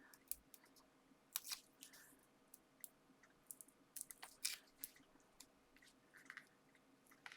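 Faint crackling and clicking of craft handling: foam pads having their backing peeled off and being pressed onto a paper card piece, as scattered short crinkles with quiet gaps between.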